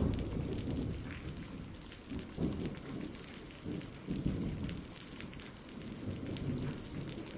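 Steady rain falling, with low rolls of thunder rumbling several times.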